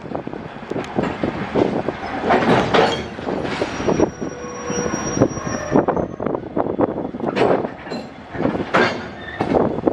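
Iron-ore freight train wagons rattling and clanking while running, heard from aboard a freight car, with many irregular metal knocks and a thin, high squeal from about four to six seconds in.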